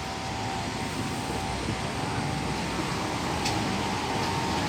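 Steady machine hum with a faint high tone running through it, and a light click about three-quarters of the way in.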